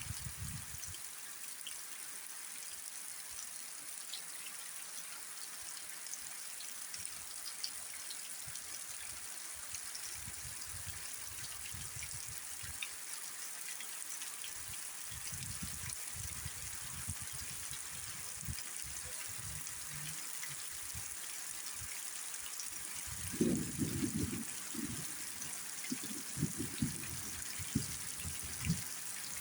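Steady rain falling, an even hiss. Irregular low rumbling bumps come and go, heavier near the end.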